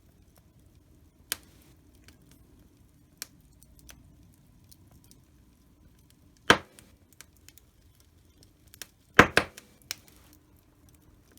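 Wood fire crackling in a fireplace: scattered sharp pops over a faint low background, with one loud pop about halfway and a quick cluster of loud pops near the end.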